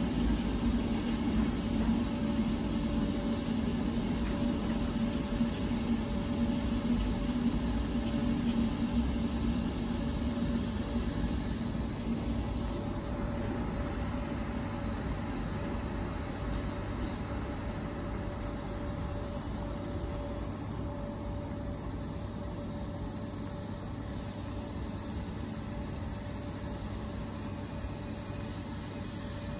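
Passenger train passing, a steady rumble with a low hum that fades about twelve seconds in, leaving a quieter steady hum and noise.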